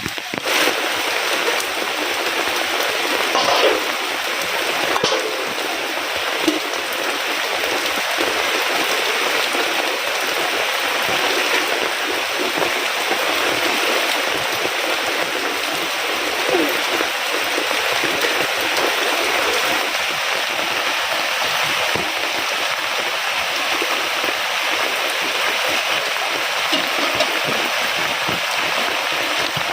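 Heavy rain falling steadily, a dense even hiss with a few louder splashes a few seconds in.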